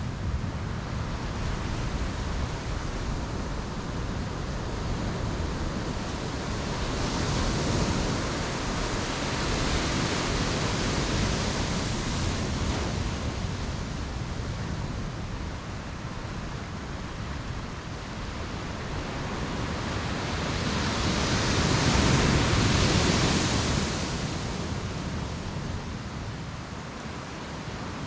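Ocean surf breaking and washing on the shore in a steady rush, with a wave swelling up about a quarter of the way in and a louder one about three-quarters of the way in.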